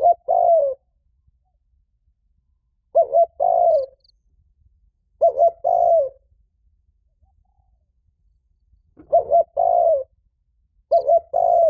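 Spotted dove giving its loud challenge coo, a phrase of two short notes followed by a longer falling note, repeated five times a few seconds apart. This is a male's territorial call, the kind used as a decoy to provoke fights.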